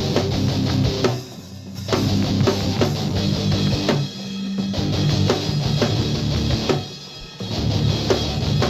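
Instrumental rock music: distorted guitar chords, bass and drum kit, with short breaks about a second in, around four seconds and around seven seconds.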